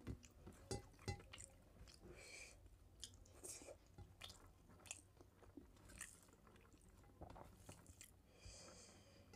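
Faint, close chewing of a mouthful of rice and mutton curry, with short clicks throughout, as fingers mix rice in a steel plate.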